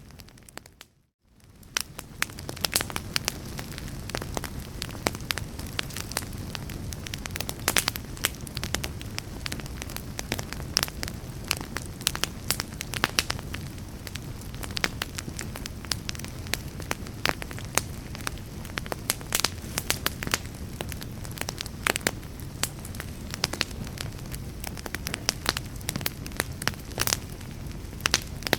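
Fireplace fire crackling, with frequent sharp pops and snaps over a steady low rumble. About a second in, the sound briefly dips to near silence and then fades back up.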